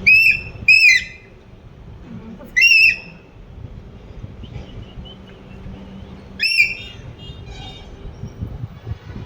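Pet parrot giving four loud, shrill whistling calls: two in quick succession at the start, another about two and a half seconds in and a last one about six and a half seconds in, with fainter chirps after it.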